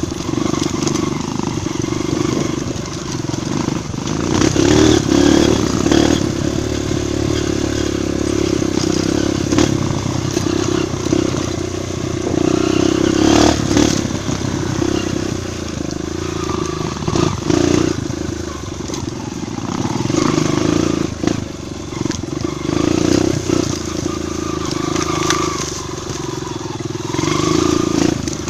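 Four-stroke trail motorcycle engine running under load on a dirt trail, the throttle opening and easing every few seconds, with clattering knocks from the bike over rough ground.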